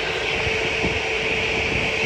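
Jet airliner engines running: a steady roar with a high hiss and a held mid-pitched whine, over a low rumble.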